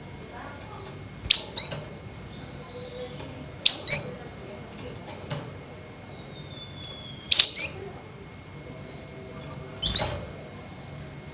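A flamboyan songbird giving short, sharp, high call bursts, each a quick doubled note sweeping down in pitch, about every three seconds (four in all), with faint thin falling whistles between them.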